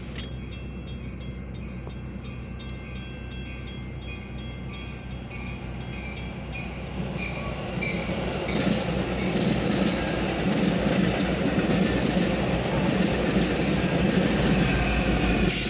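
Railroad crossing bell ringing in an even, rapid rhythm while the crossing is closed. From about eight seconds in, a Metra bilevel commuter train runs through the crossing, its wheels and cars rumbling and clacking over the rails, louder than the bell.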